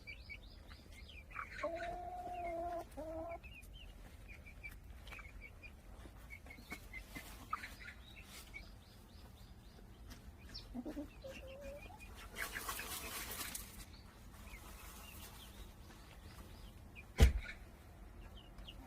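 Chickens dust-bathing: a drawn-out hen call early on, soft clucks and faint high chirps, and a scratchy rustle of dirt being flicked for about a second and a half in the middle. A single sharp knock near the end is the loudest sound.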